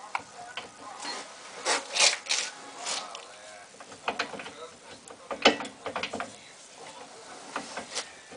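Irregular clicks, knocks and scrapes of hand tools and metal brake parts as a car's disc brake is put back together, with the loudest knocks about two and five and a half seconds in.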